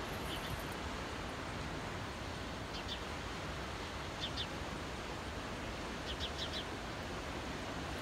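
A small bird chirping in short runs of two to four high notes, four times, over a steady rushing of wind and distant surf.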